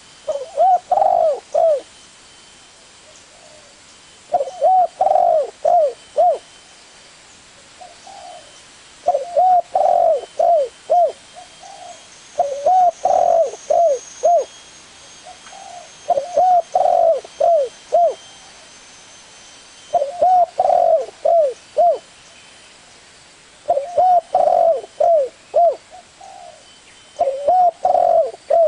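Spotted dove cooing: a phrase of four or five short, arched coos, repeated about every three to four seconds.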